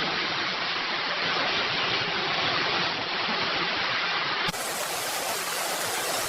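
Floodwater rushing and pouring in a steady roar, cutting abruptly to another stretch of rushing water about four and a half seconds in.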